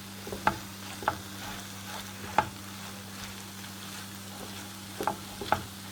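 A spoon stirring a thick chicken and onion filling in a cooking pan, with a faint steady sizzle and about five sharp knocks of the spoon against the pan.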